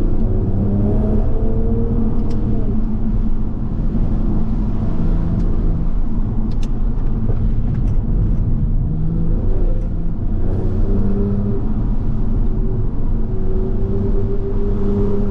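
Toyota Supra MK5's turbocharged straight-six running under way, its pitch falling early on, holding fairly steady, then climbing again near the end as the car pulls.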